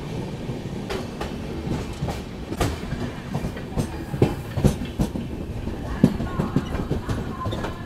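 Passenger train coaches running on the rails, heard from an open coach door: a steady rumble with the wheels knocking irregularly over the rail joints, clickety-clack.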